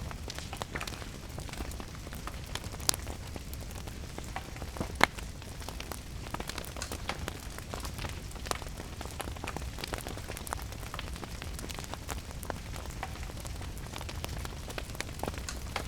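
Wood fire crackling with many small clicks and a few sharp pops, the loudest about five seconds in, over a steady rumbling hiss of rain.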